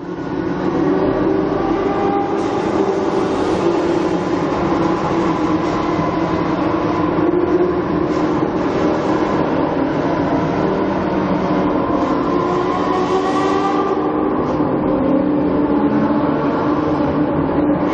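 Supercar engine running with a steady, loud drone, its pitch wavering slightly and starting to rise near the end as the revs climb.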